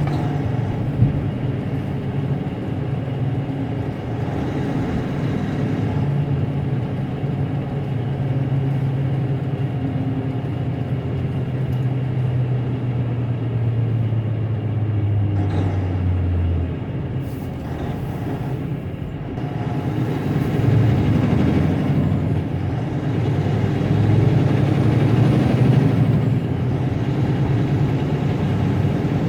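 Semi truck's diesel engine running under way, heard from the cab. Its note sinks slowly as the truck slows and drops away about 16 seconds in, then climbs again as the truck picks up speed.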